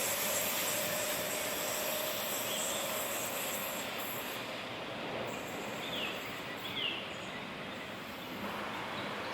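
Train running past on the rails, a steady rolling noise that slowly fades; the high rail hiss drops away about halfway through, and two short high chirps follow.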